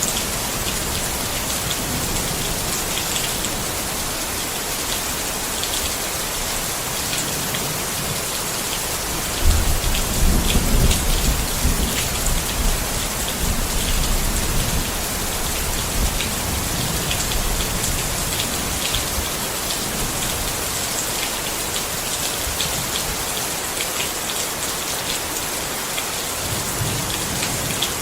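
Steady rain falling on a tent, with many fine drop taps. A low rumble of thunder swells about ten seconds in and fades over a few seconds.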